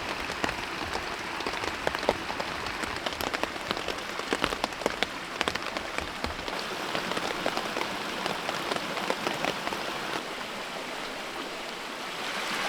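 Heavy rain falling on a tent: a steady hiss of rain with many separate drops tapping on the fabric.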